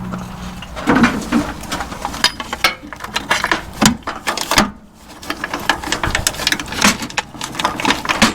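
Irregular metal clicks, clinks and knocks of hand tools working on truck fittings and bolts. A steady low hum cuts off about half a second in.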